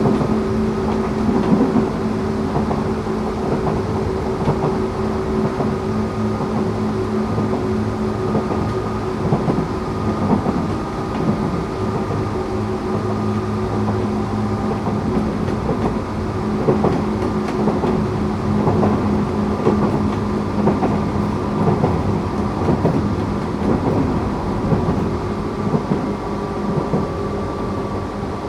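Tokyu 8500 series electric train running, heard from inside the car. The Toyo-made traction motors hum in steady tones over the rumble of wheels on rail, with scattered knocks from the track.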